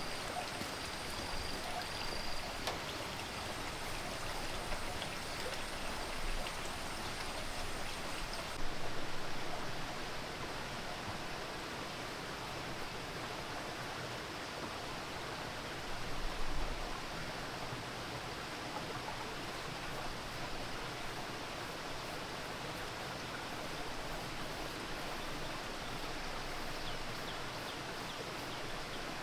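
Steady rushing noise of running water, with a short louder knock about nine seconds in and another about sixteen seconds in.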